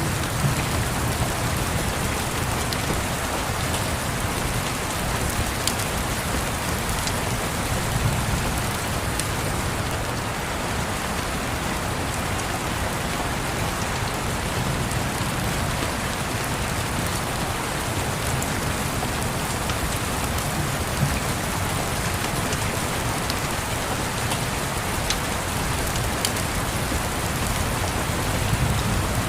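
Steady rain pattering on a window, with a few sharp crackles from a wood fire and a low rumble that swells and fades.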